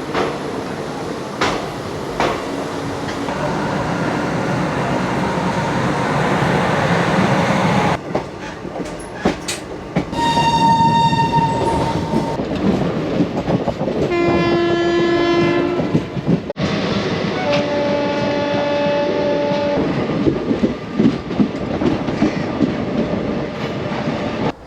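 Passenger train running with wheels clattering over the rails. Three locomotive horn blasts, each about two seconds long, come from a little before halfway on. The sound changes abruptly twice, as if cut between separate recordings.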